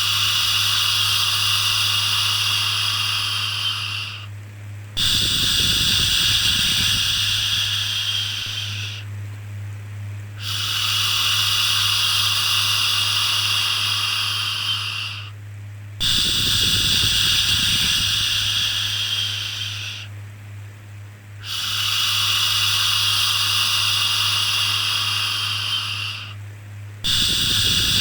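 A repeated 'shhh' shushing sound for soothing a baby: long hissing shushes of about four seconds each, with brief pauses between, over a steady low hum. A short low rumble comes with the start of every second shush.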